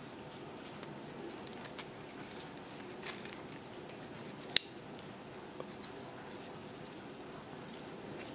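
Quiet handling of a small handmade craft piece, an altered birdhouse with a mini book inside: faint taps and rustles, with one sharp click about four and a half seconds in.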